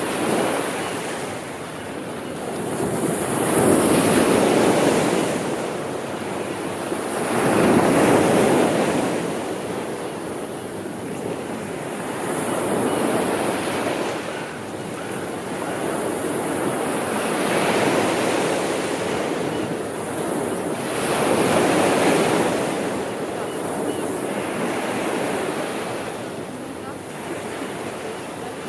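Sea waves breaking and washing onto the shore: a steady rush of surf that swells every four to five seconds and eases between breakers.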